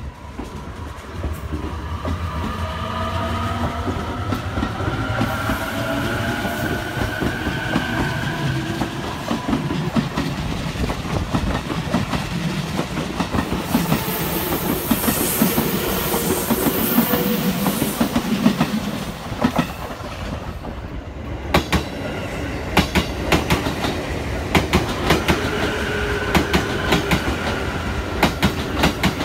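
JR East 255 series electric express train pulling away, its traction motors whining in several tones that rise in pitch as it gathers speed, over a steady wheel rumble. After a cut, the train runs slowly through a station with sharp clacks from the wheels over rail joints and a brief high tone.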